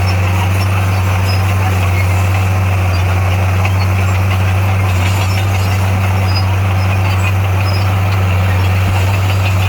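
Bulldozer diesel engine running at a steady, unchanging pitch with a low, even hum.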